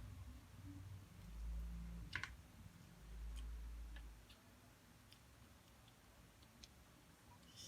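Quiet eating noises: scattered small clicks, with one sharper click about two seconds in, over a few soft low thuds.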